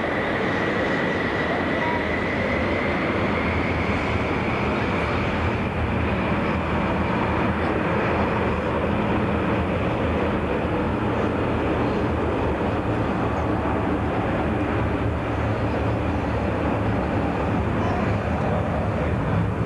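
Jet airliner engines running steadily, a loud rushing noise with a high whine that rises slightly over the first few seconds.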